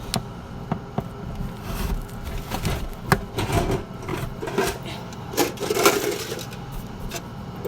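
Handling noise from fidget spinners being picked up and set out: irregular clicks, knocks and scrapes.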